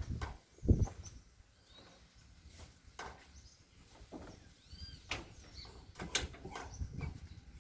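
A short low thump about a second in, then quiet outdoor ambience with scattered faint clicks and a few faint bird chirps.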